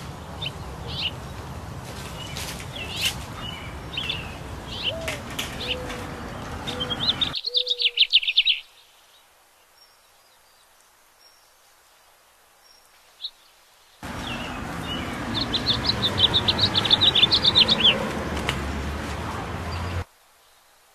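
Songbirds chirping outdoors, with a rapid trill of repeated high notes about seven seconds in and a longer one later. The sound cuts out to near silence for about six seconds in the middle.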